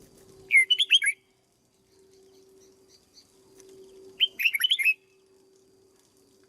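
Red-whiskered bulbul singing two short, quick warbled phrases, the first about half a second in and the second a little past four seconds in.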